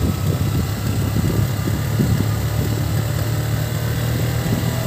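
Motorcycle engine running steadily, a low drone over a steady hiss.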